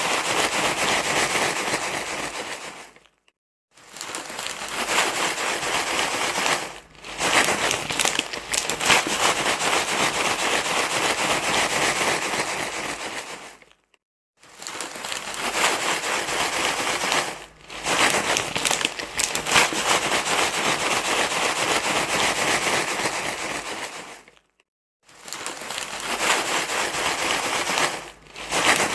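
Loud, continuous rustling and crinkling of crumpled material, repeating as a loop. It cuts out to silence for about half a second roughly every ten seconds, with briefer dips in between.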